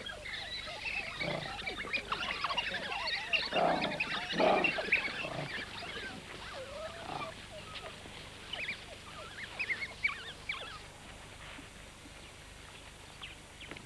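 African wild dogs at feeding time, puppies begging for regurgitated food, twittering and squealing in many short high calls, with a few louder yelps about four to five seconds in. The calls thin out after about ten seconds.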